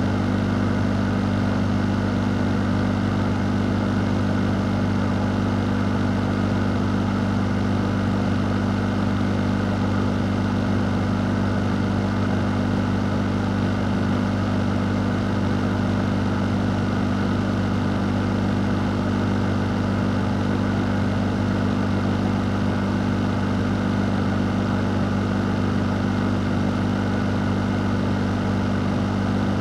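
Electric fan running steadily: a constant low hum under an even rush of moving air, with no change throughout.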